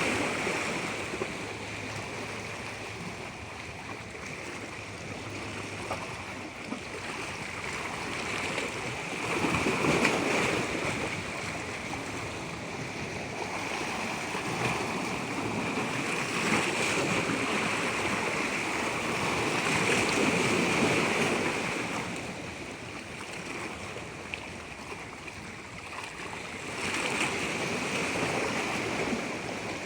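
Natural water rushing continuously, swelling louder and easing back every several seconds.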